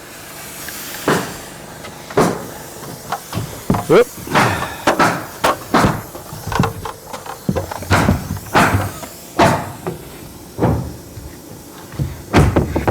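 A series of sharp knocks or bangs at irregular intervals, about one every half second to a second.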